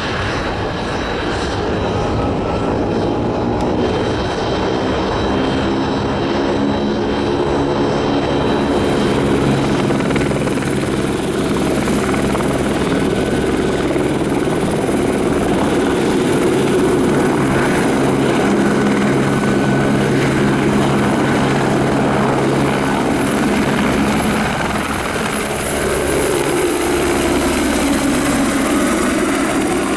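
Aircraft engine running close by, a loud steady drone with several even tones that bend in pitch near the end as it moves past.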